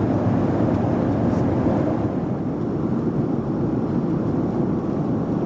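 Steady cabin noise of a Boeing 737-400 in flight: a constant low roar of engine and airflow noise heard from an economy seat.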